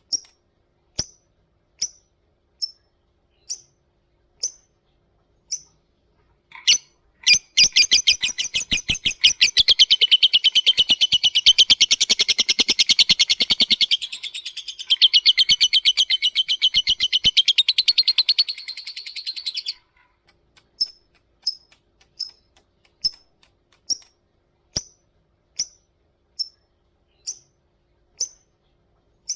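Lovebird calling: short high chirps about once a second, then from about seven seconds in a long, very rapid chattering trill (ngekek) lasting about thirteen seconds, then single chirps about once a second again.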